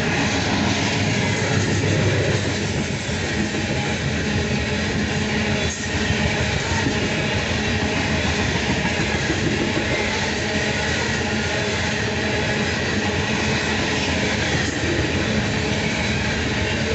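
Loaded coal hopper cars of a fast BNSF freight train rolling past: a steady rumble with a rapid clatter of steel wheels on the rails.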